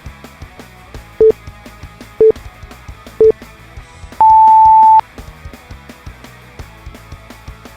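Workout interval timer counting down: three short beeps a second apart, then one longer, higher beep that marks the switch to the next interval, over background music.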